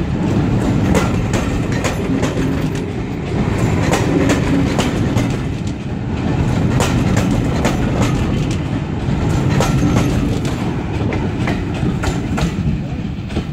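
Passenger coaches rolling past close by, their wheels clattering over rail joints and pointwork: a steady rumble with frequent sharp clicks.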